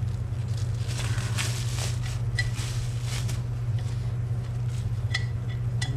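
Drill press parts being unwrapped from their packaging: scattered rustles and light clicks over a steady low hum.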